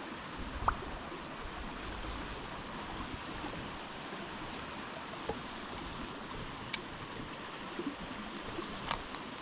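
Steady rushing of a mountain stream, with a few faint short clicks or taps now and then.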